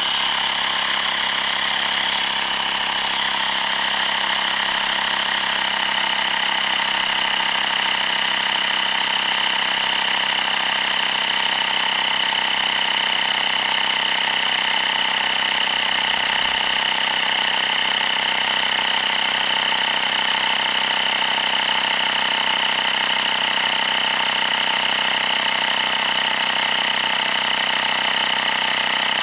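Small portable electric tyre pump running steadily with a loud, even mechanical buzz, its little compressor pumping the Xiaomi M365 scooter's front inner tube up from 0.9 bar towards 4 bar.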